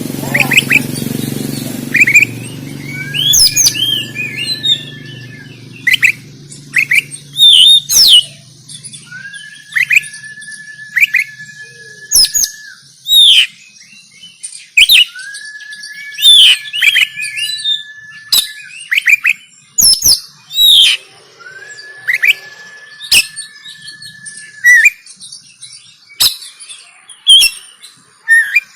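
Oriental magpie-robin (kacer) singing a varied, loud song of sharp chirps and quick swooping whistles. Four times it breaks into a long, level whistle of about two seconds.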